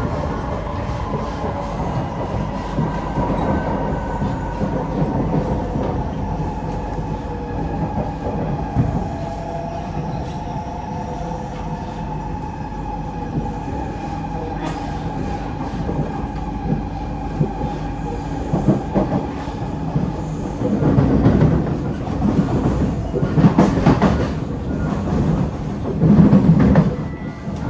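Inside a Kawasaki–CRRC Sifang C151A metro train in motion: the traction motors give a steady whine that slowly falls in pitch, over a continuous rumble of wheels on track. Near the end the rumble turns louder and uneven, with bursts of wheel and track clatter.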